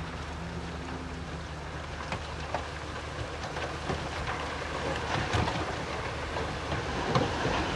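Bulldozer's diesel engine running steadily, with scattered knocks and clicks of stone and metal over it.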